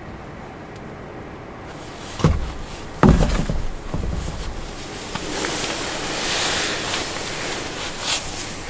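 Strong wind gusting: two sudden deep buffets on the microphone a couple of seconds in, then a swelling rush of wind.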